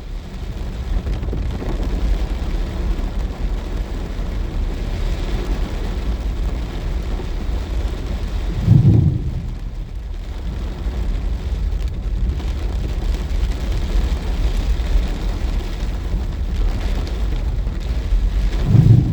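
Heavy rain falling steadily, with a deep rumble underneath. Two brief low thumps stand out, one about halfway through and one at the end.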